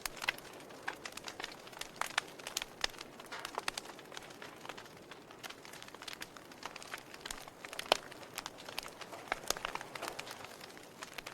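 Wood fire crackling: irregular sharp snaps and pops over a soft hiss, with one louder pop about eight seconds in.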